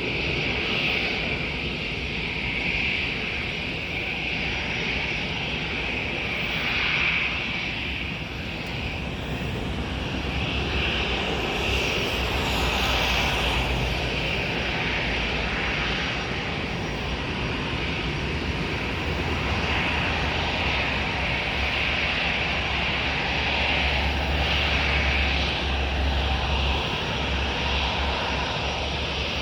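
Boeing 737 MAX 8's CFM LEAP-1B turbofan engines running steadily with jet noise as the airliner comes in to land, with low wind rumble on the microphone.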